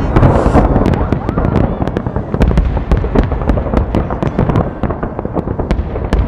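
Fireworks salute: a dense, continuous run of crackling pops and bangs over a low rumble, loudest at the start and easing a little.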